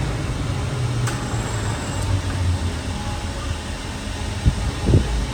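Steady low mechanical rumble, with a few short low knocks near the end.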